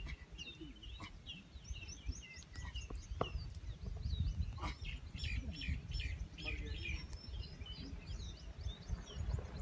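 Birds chirping, with many short high calls overlapping throughout, over a low steady rumble.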